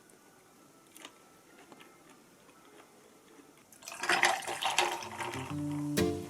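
Very quiet room with a few faint clicks, then about four seconds in a louder rushing, splashing sound of running or pouring liquid. Guitar music begins near the end.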